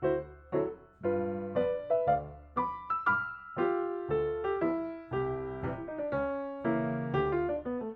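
Background music played on piano: separate struck notes and chords, each fading away, in a moderate tempo.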